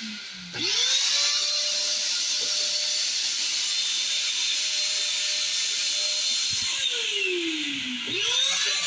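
Shop vac running with a steady motor whine and a rush of air. The motor's pitch and loudness sag and then quickly climb back up twice, about half a second in and again just after eight seconds.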